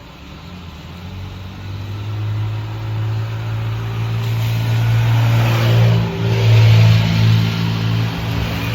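A car approaching and passing: a low engine hum and tyre hiss build over several seconds, are loudest about six to seven seconds in, then ease off.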